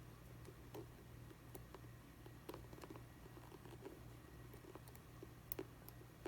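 Faint, scattered small clicks and taps of hands handling the small plastic parts and wire of a shoe's lacing dial during repair, with a sharper click about five and a half seconds in, over a low steady hum.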